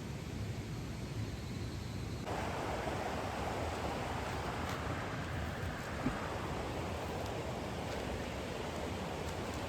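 Mountain stream rushing steadily. A couple of seconds in, the rush becomes fuller and brighter.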